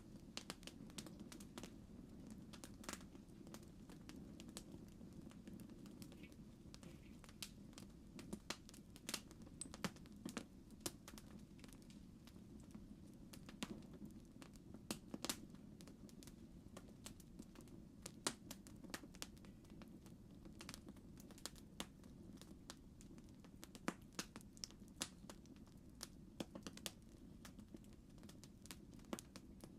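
Campfire burning: a faint, steady low rush with irregular sharp crackles and pops.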